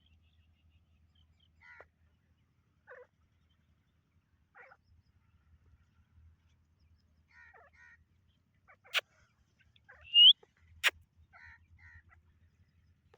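Teetar partridges giving soft, scattered short calls, with one loud rising call about ten seconds in. Two sharp clicks come just before and just after it.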